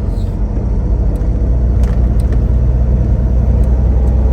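Semi truck's diesel engine and road noise droning steadily inside the cab, a little stronger from about two seconds in, with a few faint ticks.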